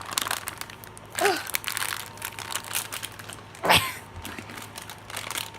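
Plastic packaging crinkling and crackling as it is pulled and twisted by hand in an attempt to tear it open. There is a short vocal sound about a second in, and a louder sharp crackle a little past halfway.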